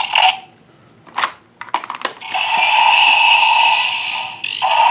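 Electronic toy sound effect from a small built-in speaker: a steady buzzing tone starting about two seconds in, breaking off briefly near the end and resuming, after a few sharp clicks of plastic toys being handled.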